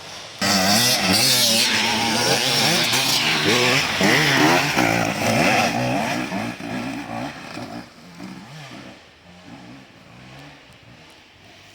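Enduro motorcycle engine revving up and down as the throttle is worked, suddenly loud about half a second in, then fading away after about six seconds as the bike moves off.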